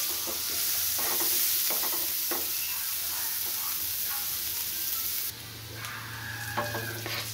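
Chopped onion and green chillies sizzling in hot oil in a non-stick frying pan, with a wooden spatula scraping and tapping the pan as they are stirred. About five seconds in, the sizzle drops quieter and a low steady hum comes in underneath.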